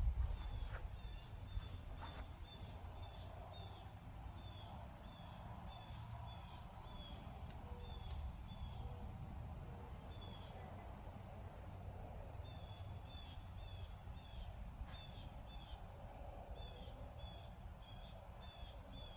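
A small bird chirping over and over, short high chirps about two a second in runs with pauses, over a low outdoor rumble. A few faint clicks in the first couple of seconds.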